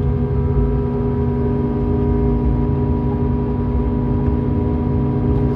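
Scania K410EB6 coach's six-cylinder diesel engine running at a steady speed: a low rumble with a steady hum of tones over it that does not rise or fall.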